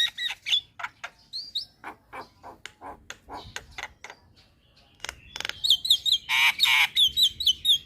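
Javan myna calling: a run of short chirps and harsh squawks, a brief lull, then from about five seconds in rapid repeated short rising whistles mixed with squawks.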